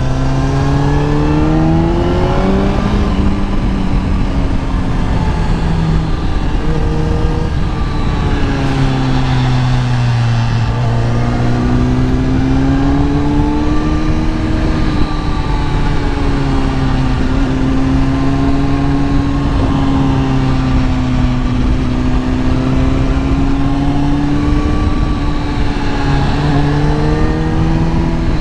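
Kawasaki ZX-10R inline-four engine running under way, its pitch rising and falling slowly several times as the throttle is opened and eased, holding fairly steady through the middle of the stretch and climbing again near the end.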